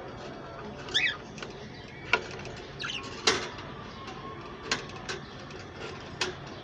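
Budgerigars chirping twice, short gliding calls, among four sharp clicks and knocks from the wire cages as a food dish goes in and a cage door is shut.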